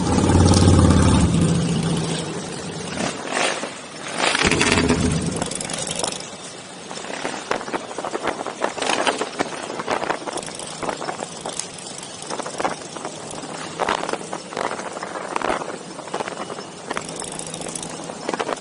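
Motorcycle engines running loudly, with a deep engine note swelling in the first two seconds and again about four seconds in. After that a rough, crackling noise with many short irregular spikes takes over.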